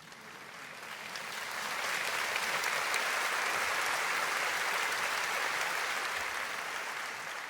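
Audience applauding, swelling over the first couple of seconds, holding steady, then easing slightly near the end.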